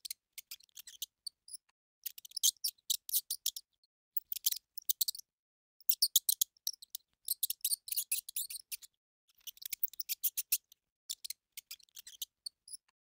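Insects stridulating: repeated bursts of rapid, high-pitched clicking chirps, each lasting about half a second to a second, with short pauses between them.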